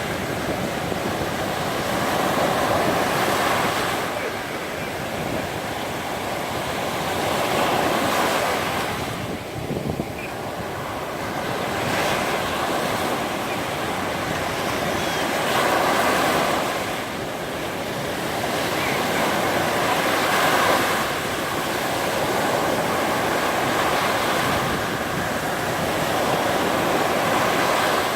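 Sea waves breaking and washing up a sandy beach, swelling and easing every few seconds, with wind buffeting the microphone.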